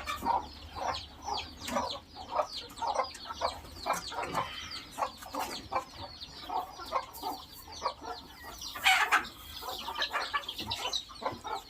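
Chickens clucking and calling in quick, repeated short notes, with one louder harsh burst about nine seconds in.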